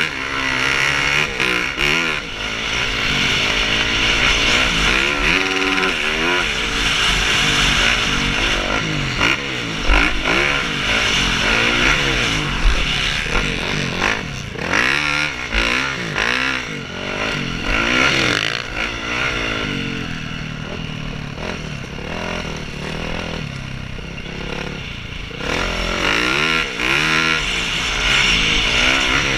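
Several motocross bikes racing round a dirt track, their engines revving up and dropping back in overlapping sweeps of pitch. The engines fade somewhat about two-thirds of the way through and grow louder again near the end.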